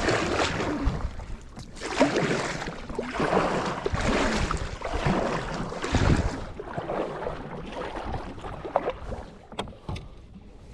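Kayak paddle strokes: water swishing and splashing in swells about every two seconds, fading out over the last few seconds.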